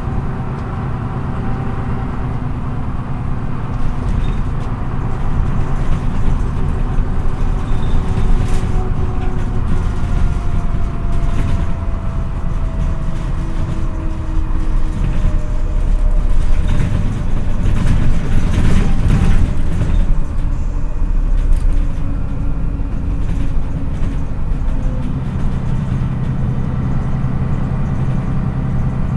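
A MAN NÜ 313 low-entry city bus heard from inside the passenger cabin while driving. The engine runs with a low rumble and a whine that slowly drops in pitch, then grows louder, with rattles, about halfway through. It settles to a steadier, lower hum near the end.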